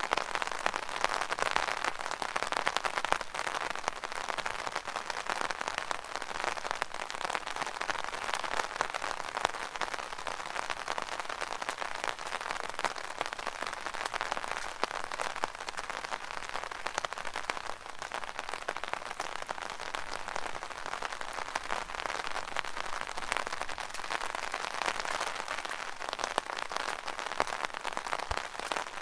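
Rain falling on an umbrella: a dense, steady patter of many small drops hitting the canopy.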